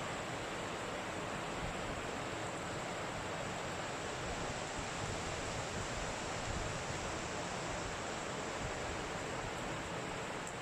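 Strong wind blowing through a heavy snowstorm, a steady rushing noise with no distinct gusts or impacts.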